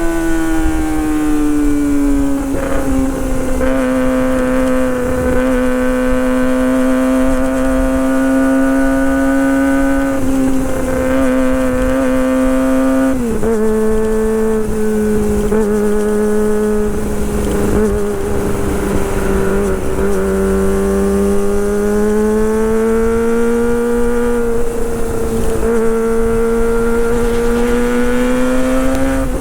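Kawasaki Ninja ZX-25R's 250 cc inline-four engine running at high, held revs with a steady high-pitched howl. The pitch eases down at the start, drops a step about 13 seconds in, and slowly climbs again near the end.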